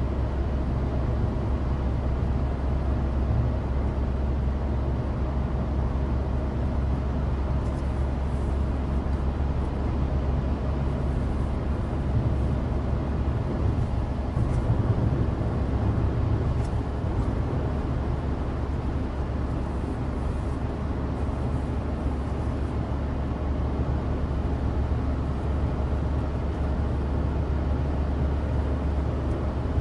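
Cabin noise inside a Suzuki Alto Turbo RS (HA36S) climbing a mountain grade: the 660 cc turbocharged three-cylinder engine runs steadily under load over a constant hum of studless winter tyres on dry asphalt.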